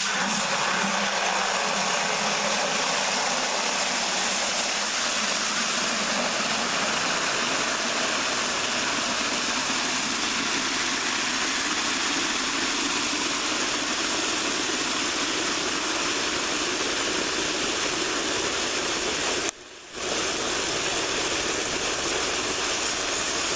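Water from a hose pouring into a bucket with soap in it: a steady, loud splashing hiss with a low hollow note that slowly rises in pitch as the bucket fills. It breaks off briefly about three-quarters of the way through, then carries on.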